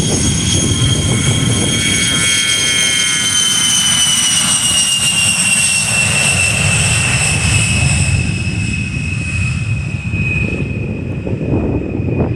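An A-10 Thunderbolt II's twin TF34 turbofan engines running: a loud steady rumble under a high whine that slowly drops in pitch, easing a little near the end.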